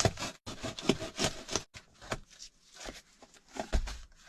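Cardboard box being pierced and cut: a quick run of scraping, rustling strokes, then a pause and a few sparser ones.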